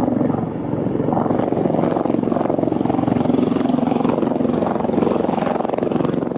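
Helicopter engine and rotor running steadily, a dense rapid beat.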